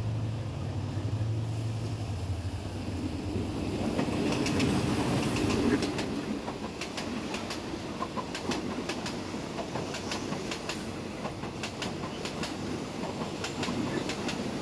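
A passenger train passing close by on the adjacent track: a low rumble that swells to its loudest about four to six seconds in as the front of the train goes by, then the coaches rolling past with a quick, irregular clatter of wheels over rail joints.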